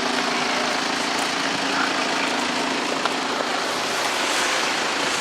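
Steady vehicle running noise: a constant engine hum under an even hiss of road noise.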